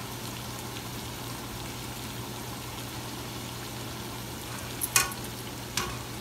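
Fry bake dough sizzling steadily in hot oil in a pan. Two sharp clicks of the metal tongs sound near the end.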